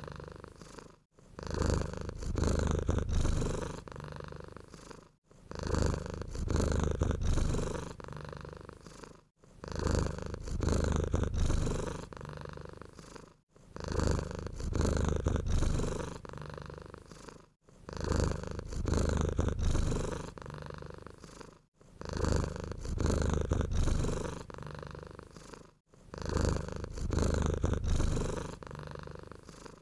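Domestic cat purring steadily. The purr swells and fades in an even cycle about every four seconds, with a brief break between each swell.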